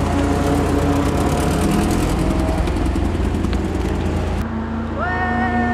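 Alfa Romeo 33's flat-four engine running as the car pulls away close by. After an abrupt change about four seconds in, a high, steady squeal starts near the end.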